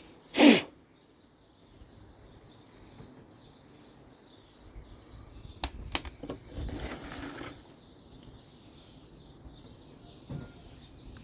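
Workshop handling noises with birds chirping in the background: a short, loud rush of noise about half a second in, then two sharp clicks near the middle followed by a brief rustle.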